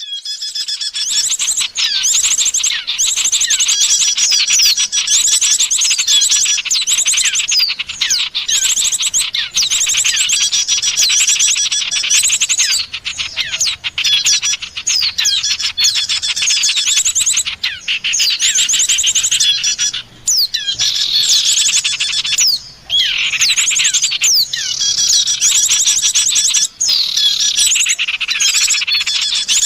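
Dense bird-luring chorus of small songbirds, white-eyes and prinias, chirping and trilling rapidly over one another, with quick falling whistles. It runs almost without pause, dropping out briefly twice in the second half.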